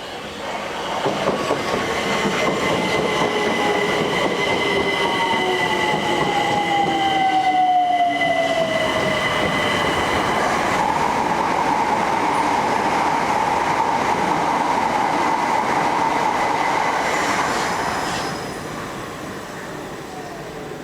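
Electric multiple unit train running through the station, with whining tones, some gliding down in pitch, over the rumble of the train. The noise builds about a second in and dies down near the end.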